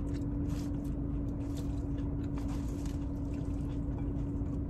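A person chewing a mouthful of arugula salad with almond slices, with scattered soft crunches, over a steady low hum.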